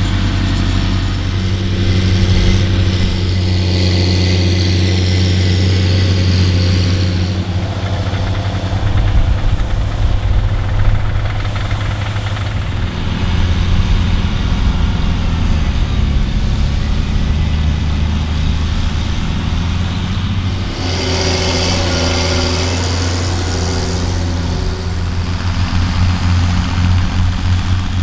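Heavy farm-machinery diesel engines running hard and steady, from tractors or harvesters at work. The engine note shifts about seven seconds in and again about twenty seconds in, as one machine's sound gives way to another's.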